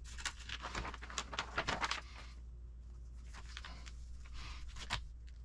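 Servo packaging and small parts handled at a workbench: a dense run of crinkling and light clicks for about two seconds, then a few isolated clicks.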